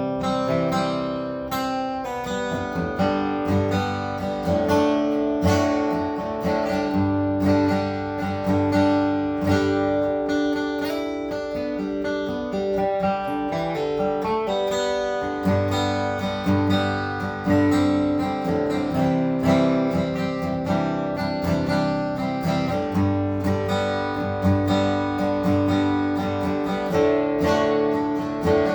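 Seagull acoustic guitar being strummed, a continuous run of chords with ringing notes and no singing.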